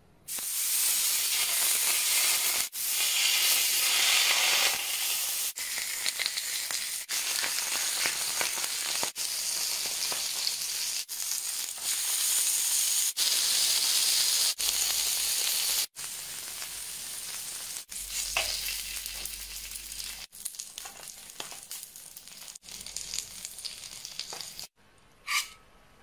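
Fish fillets sizzling as they fry in oil on a hot stone griddle: a dense, steady sizzle, louder at first and quieter in the second half, with brief breaks every few seconds. A short clink near the end.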